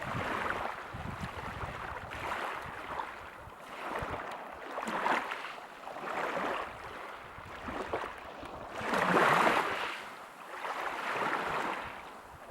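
Ocean surf: waves washing in and drawing back in irregular swells every couple of seconds, the biggest one about nine seconds in.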